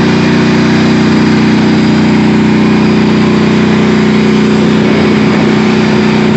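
A battle-damaged tank's engine running steadily at a low, even speed, still working although the tank is wrecked.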